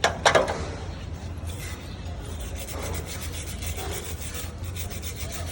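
Quick repeated scrubbing strokes against an engine cylinder head being cleaned, over a steady low hum, with a brief loud clatter just after the start.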